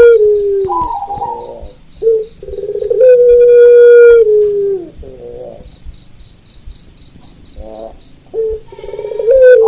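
A rooster crowing: long held calls that fall in pitch at the end, one near the start, a second about three seconds in, and another starting near the end. Short warbling zebra dove coos come between the crows, and an insect chirps in a steady fast pulse in the background.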